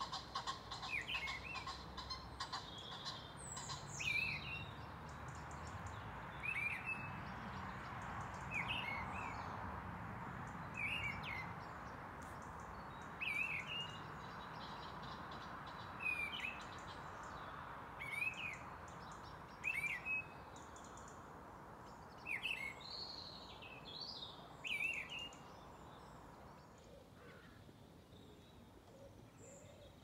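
Dawn chorus: a bird repeats a short chirping phrase about every two seconds over a steady background hiss. The hiss fades out near the end.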